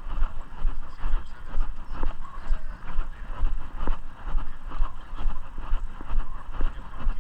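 Wind buffeting the microphone during a walk: a low rumble that swells and falls unevenly, with a few short clicks.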